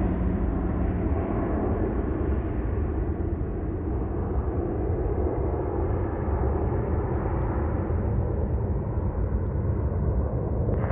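Jet airliner's engines roaring as it climbs out after takeoff: a steady rumble that very slowly loses its higher hiss as the aircraft draws away.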